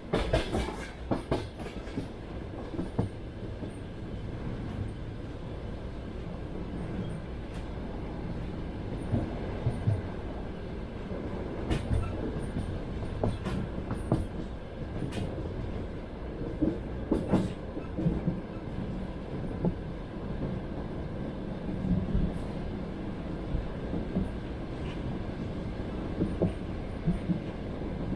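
Passenger train wheels on the rails, heard from inside the carriage: a steady low running rumble, with clusters of clickety-clack as the wheels pass over rail joints every few seconds.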